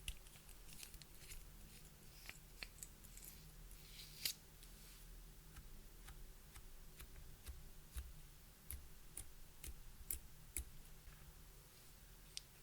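Faint, irregular sharp clicks and crackles from hands working clear slime and makeup, with a louder snap about four seconds in.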